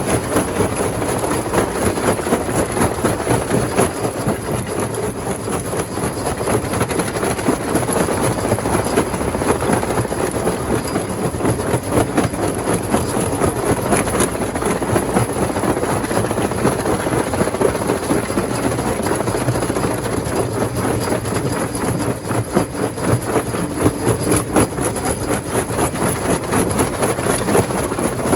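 Rock crusher machine running, with stones clattering and grinding as they are broken: a steady, dense rattle of many small knocks.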